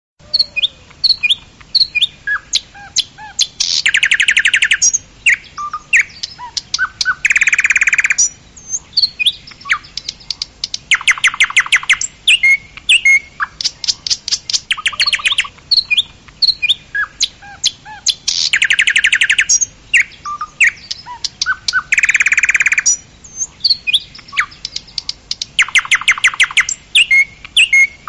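Birds calling: many short chirps and whistles, broken by loud, fast trills about a second long several times over. The same sequence of calls repeats about halfway through.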